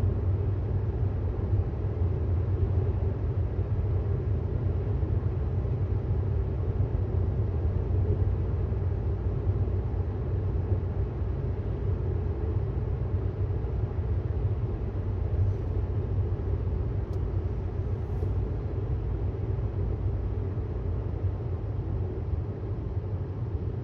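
Steady low road and tyre rumble inside the cabin of a moving 2018 Tesla Model S 75D; as an electric car it has no engine note.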